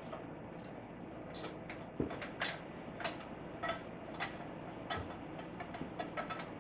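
Scattered metallic clinks and taps of hand tools on motorcycle parts, a dozen or so short sharp hits at irregular intervals, some with a faint ring.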